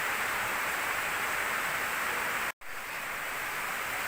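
Steady heavy rain falling, an even dense hiss. It cuts out for a split second just past halfway and comes back a little quieter.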